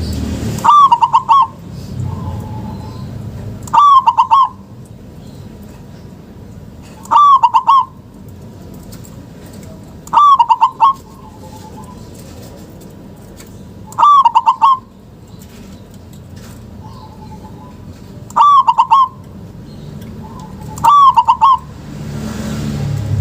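Local zebra dove (perkutut) singing its cooing song: a short loud phrase of several quick notes, repeated seven times at intervals of about three to four seconds.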